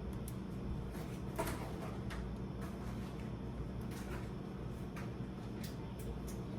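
Groceries being handled and set on fridge shelves: a few scattered light knocks and packaging rustles over a steady low hum.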